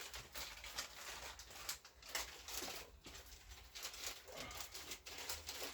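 Light rustling and small irregular clicks of parts and packaging being handled.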